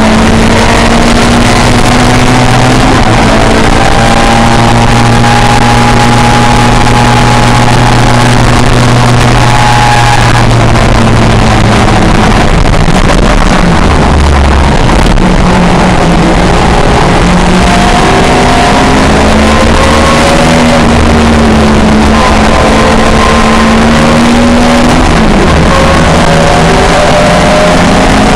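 Historic pre-1966 touring car engine running hard at racing speed: a continuous, very loud engine note that climbs slowly and drops at a few gear changes.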